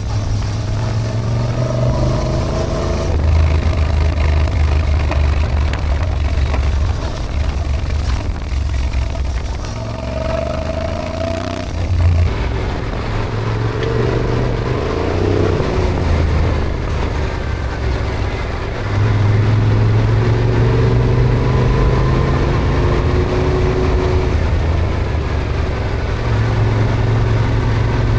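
Yamaha Ténéré adventure motorcycle being ridden, its engine running steadily under way. The engine note shifts between a lower and a higher pitch several times.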